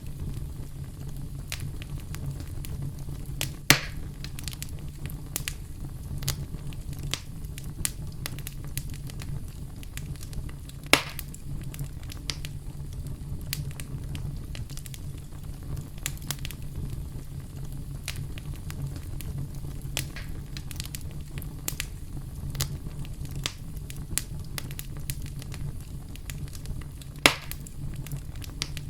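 Wood campfire crackling, with a steady low rumble of flames under frequent small snaps. Three much louder sharp pops stand out: about four seconds in, about eleven seconds in, and near the end.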